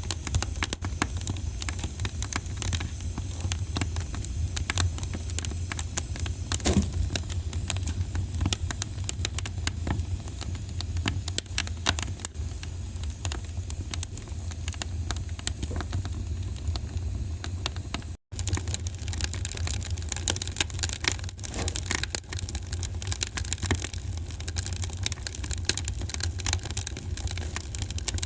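Wood fire crackling and popping continuously, with many sharp snaps over a steady low rumble. The sound cuts out for an instant about two-thirds of the way in.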